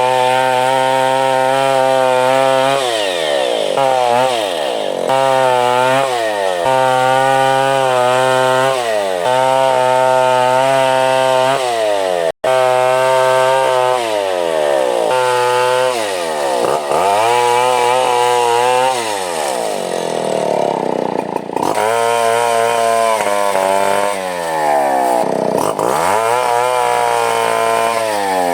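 Stihl 070 two-stroke chainsaw running at high revs, the engine note repeatedly dipping and climbing back about every couple of seconds.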